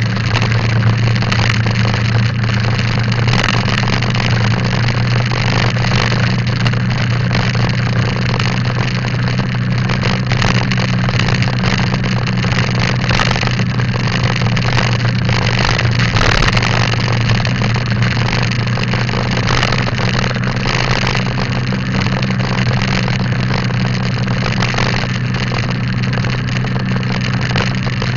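Motorcycle engine running at a steady cruising speed: a constant low drone with a steady rushing noise over it.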